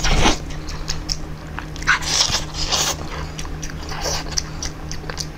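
A person eating noisily close to the microphone: wet chewing, biting and slurping sounds in short bursts, over a steady low hum.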